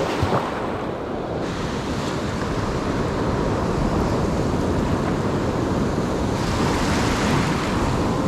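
Ocean surf breaking and washing up a sandy beach in a steady rush, with wind blowing across the microphone.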